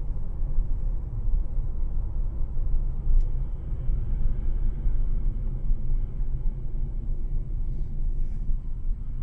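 Steady low rumble of a vehicle on the move, engine and road noise without any distinct events.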